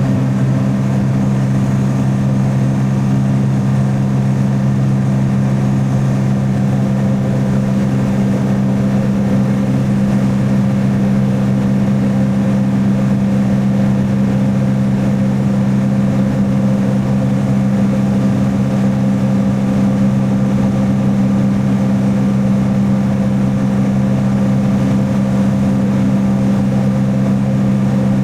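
Jet ski engine running at a steady pitch, holding constant speed.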